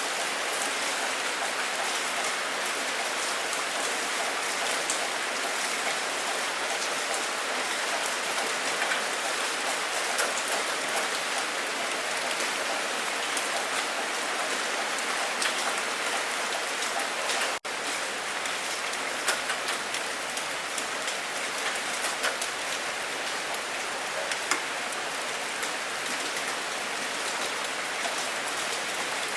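Steady rain falling, a dense even hiss with many individual drops ticking through it. There is a momentary dip in level a little past halfway.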